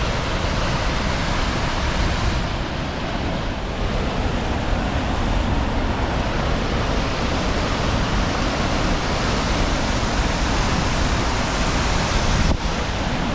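Waterfall and creek running high with snowmelt: a loud, steady rush of falling water.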